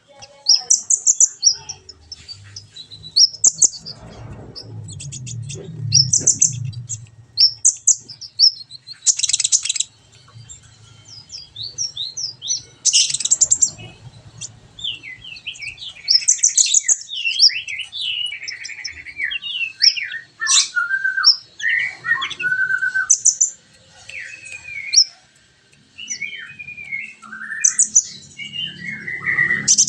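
Kolibri ninja, a sunbird, singing continuously: quick high chirps and fast trills, then, from about halfway, sliding whistled notes lower in pitch. A low rumble sits under the song for a few seconds near the start.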